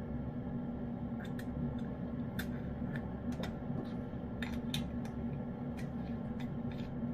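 Cat eating wet food from a dish: irregular small clicks and clinks, spaced unevenly, over a steady low hum.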